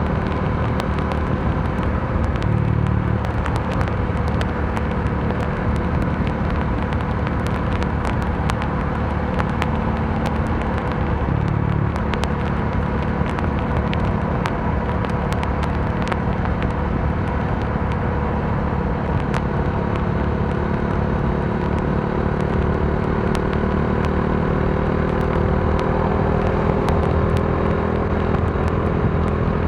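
Modenas Dominar D400's single-cylinder engine running steadily under way, with road and wind noise and scattered sharp ticks; the engine revs climb slowly over the last few seconds.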